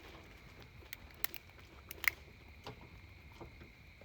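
Small campfire of freshly added sticks crackling, with scattered sharp pops, the loudest about a second and two seconds in.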